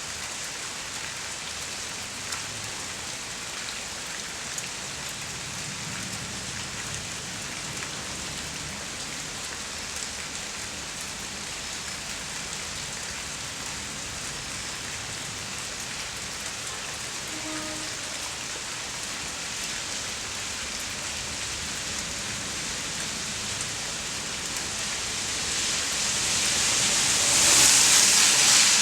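Steady rain falling and pattering on surfaces, with a few small drip ticks. Near the end a louder hiss swells up.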